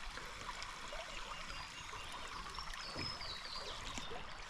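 River water running steadily, an even rushing hiss, with a few faint high chirps about three seconds in.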